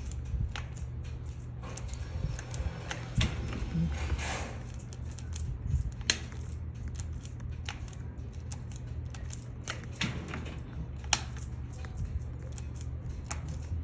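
Handling noise from the recording phone: irregular sharp clicks and taps over a steady low rumble.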